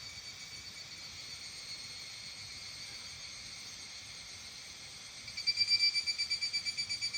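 Insects singing in a steady, fast-pulsing chorus. About five seconds in, a louder pulsed call starts close by and slowly fades.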